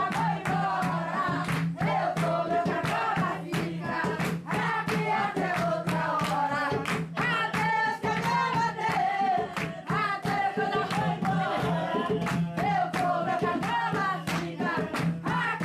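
Group of voices singing a jongo song, with sharp percussive strikes several times a second throughout.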